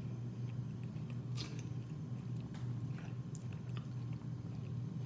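Close-miked mukbang eating: chewing and biting seafood, with scattered wet mouth clicks, one sharper about a second and a half in, over a steady low hum.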